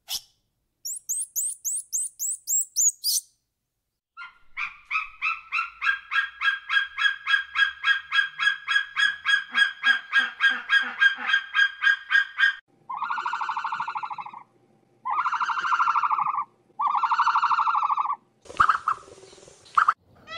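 Several animal calls in turn: a short run of quick high chirps, then a long series of fast repeated calls, then three long honking calls with pauses between them.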